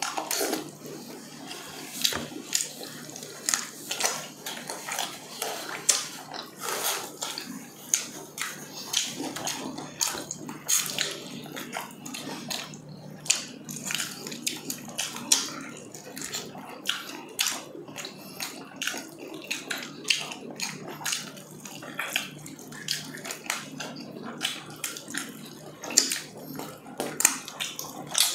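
Close-up eating sounds: wet chewing and lip-smacking as meat is bitten and eaten by hand, a dense run of irregular sharp smacks and clicks.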